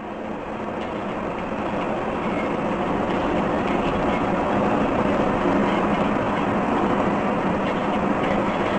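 Steady rumbling vehicle noise that grows louder over the first few seconds and then holds, with a low hum underneath.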